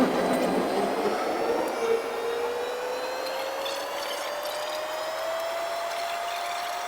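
Jet engine noise heard from the cockpit of an Airbus A319, with a clear whine that sets in about two seconds in and rises slowly and steadily in pitch.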